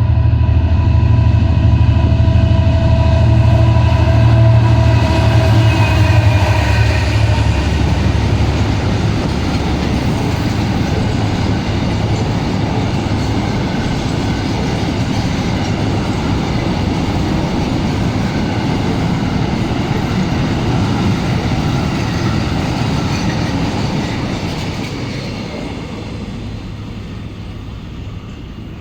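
Diesel freight locomotive running hard as it passes, its engine note dropping in pitch as it goes by, followed by a long string of empty pulp wagons rolling past. The rolling fades away over the last few seconds.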